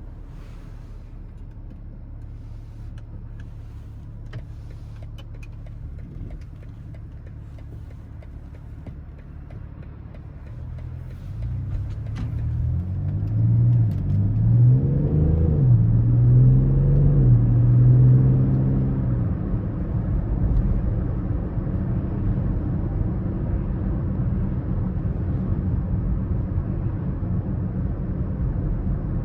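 BMW X5 30d's straight-six diesel engine, first running quietly at low speed, then accelerating hard about a third of the way in: its pitch climbs, drops at a gear change, and climbs again. It then settles into a steady cruise with a low rumble and tyre noise.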